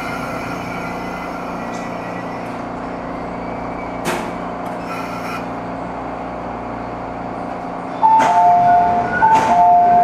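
Steady running noise inside an MTR East Rail line train car as it comes to a stop at the station, with a single click about four seconds in. Near the end a clear two-note falling chime sounds twice, louder than the running noise: the door chime at the station stop.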